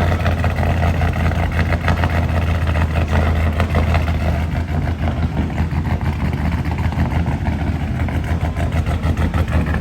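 Performance car engine idling steadily through its exhaust.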